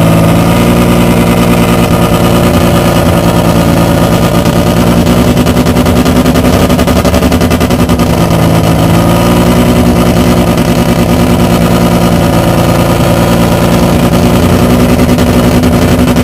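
Mazda rotary racing engine of the MCS race car running very loud and steady with a rapid pulsing beat; its pitch drops slightly just after the start and then holds, wavering a little.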